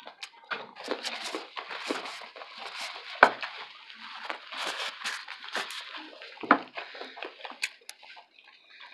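Close-up eating sounds: chewing, with a paper napkin rustling and crinkling as mouth and hands are wiped. Two sharper clicks come about three seconds in and again about six and a half seconds in.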